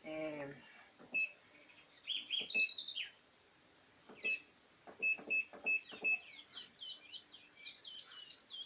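Small birds chirping and singing: scattered short chirps, then a quick run of repeated falling whistles near the end.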